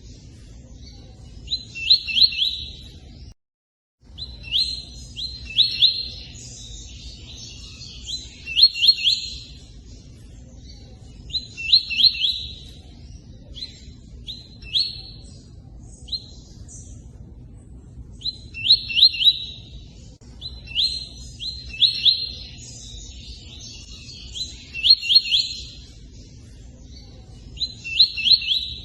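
A songbird singing a short phrase of quick, high notes, repeated every two to three seconds: the 'tui-tui' song used to teach cage birds, over a steady low rush of running water. Everything drops out for about half a second about three and a half seconds in.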